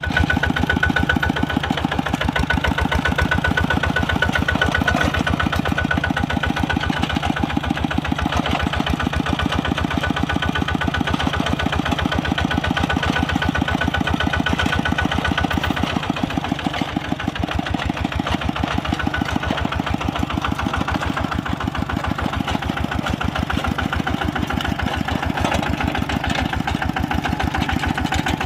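Kubota RT 140 single-cylinder diesel engine running steadily, a fast, even chug of firing pulses.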